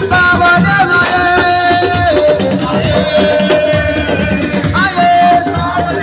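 Live Senegalese assiko music: dense drumming and shaker rattles under long held melody notes, with a short upward slide into a held note about five seconds in.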